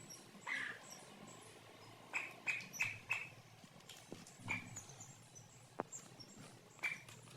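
Domestic chicks peeping in short, separate cheeps: a quick run of four about two seconds in, then single cheeps later.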